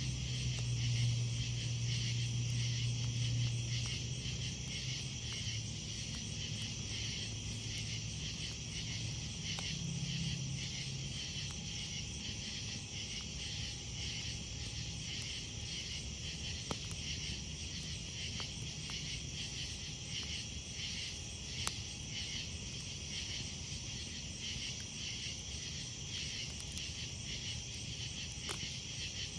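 Night insect chorus of crickets trilling steadily, with a few sharp crackles from a wood campfire. A low drone underneath fades out about ten seconds in.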